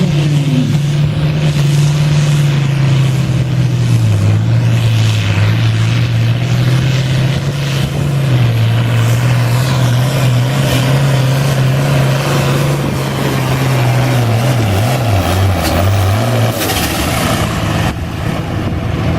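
International Harvester 966 pulling tractor's six-cylinder diesel engine running hard under heavy load as it drags the pulling sled. Its pitch sags lower as the load builds, then the engine note cuts off about three-quarters of the way through, followed by a brief hiss.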